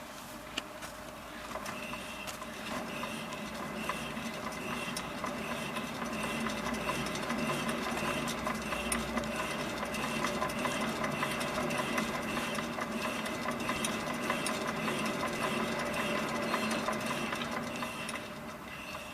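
A Renault Logan running, with a steady mechanical hum that builds about two seconds in and carries a faint regular pulsing. The noise the owner was chasing is gone after the left driveshaft was replaced with a used original part.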